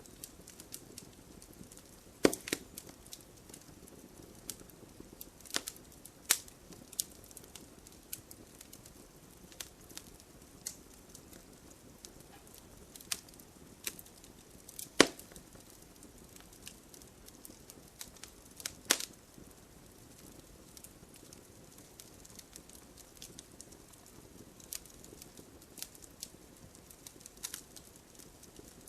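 Wood fire in a fireplace crackling, with a soft steady hiss of flame and scattered sharp pops from the burning logs, the loudest about two seconds in, near the middle and about two-thirds of the way through.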